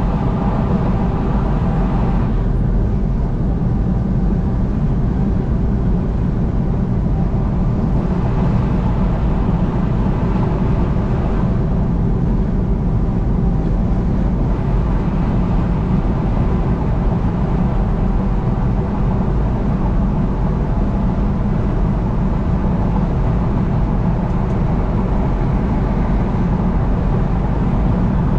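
Steady rumble of a vehicle driving at highway speed, tyre and road noise with a low engine drone, unchanging throughout.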